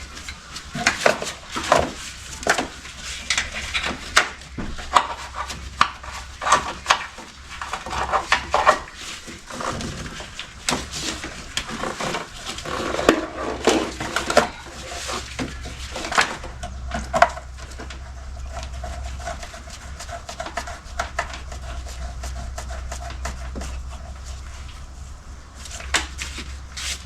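Hand tools and metal parts clinking and knocking during engine assembly work, over a steady low hum. About two-thirds of the way through the knocking mostly stops and a steady whine runs under the hum.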